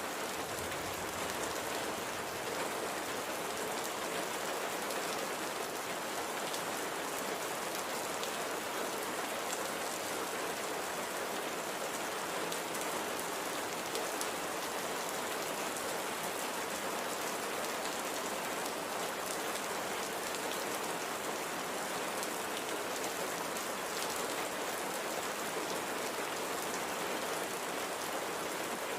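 Steady light rain falling, a constant even hiss with faint patter of individual drops.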